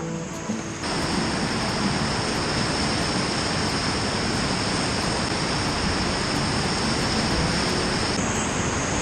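Whitewater of river rapids rushing steadily, an even hiss with a short quieter dip in the first second.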